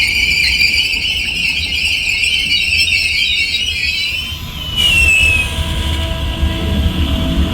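Train at a station: a high, steady squeal that fades after about four seconds, then a sudden burst of noise with a brief falling squeal, followed by a low whine beginning to rise as the train moves off.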